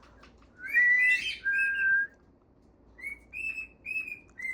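Pet bird whistling: a rising whistle into a held note about a second in, then a lower held note, and after a short pause a run of short chirping whistles.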